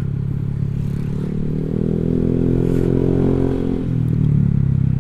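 Honda Vario 150 scooter's single-cylinder engine running through a Black Devil R2 Seca aftermarket exhaust while riding, rising in pitch as the throttle opens about halfway in, then settling back, over low wind rumble.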